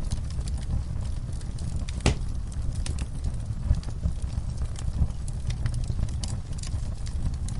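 Fire burning in a fireplace: a steady low rumble with irregular crackles and pops, one louder pop about two seconds in.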